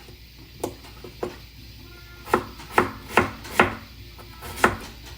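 Knife chopping on a cutting board: about eight sharp knocks at an uneven pace, closest together in the middle.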